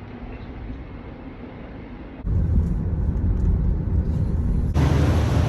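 Low steady vehicle rumble that cuts in suddenly about two seconds in after faint background noise, with a louder hiss added near the end.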